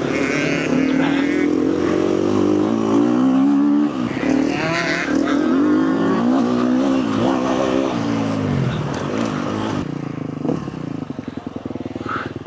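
KTM four-stroke motocross bike engine revving hard, its pitch climbing and falling repeatedly as it accelerates and shifts around the track. About ten seconds in it drops to a lower, uneven putter.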